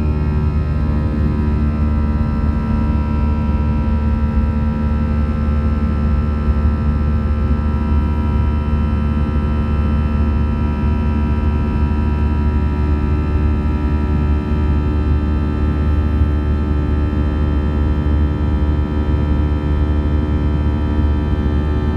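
Airbus A320 jet engines running steadily, a loud low rumble with a steady whine of tones above it.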